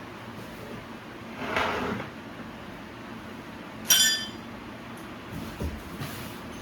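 Metal parts and tools being handled during bicycle assembly: a short scrape, then a sharp metallic clink that rings briefly about four seconds in, and a soft knock near the end.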